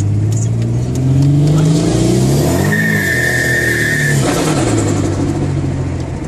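Chevrolet Monte Carlo's engine, heard from inside the cabin, revving up hard under acceleration for about two and a half seconds. A high steady whine sounds for about a second and a half at the top of the pull, then the revs fall away.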